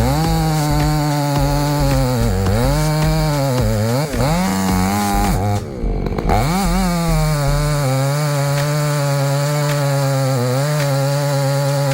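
Two-stroke chainsaw running at high revs while cutting wood, its pitch sagging and recovering several times as the chain bites into the cut. A little past halfway the sound briefly drops away and then returns.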